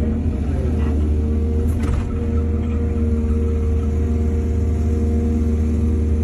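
Excavator's diesel engine running steadily under load, with a steady whine above it and a couple of faint knocks in the first two seconds.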